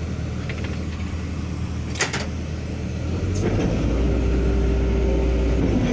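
Sumitomo hydraulic excavator's diesel engine running. About three and a half seconds in, the hydraulic pump is put under load for a pump-pressure check: the engine note deepens and grows louder, and a steady hydraulic whine sets in. A sharp click sounds about two seconds in.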